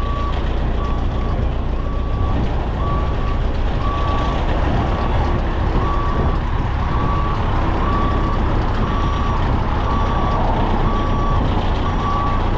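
Vehicle reversing alarm beeping steadily, about twice a second, over a diesel engine running.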